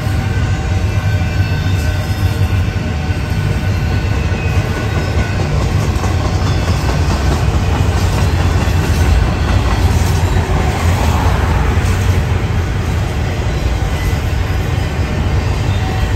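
Double-stack intermodal container train rolling past: a steady, loud low rumble of steel wheels on rail and well cars going by.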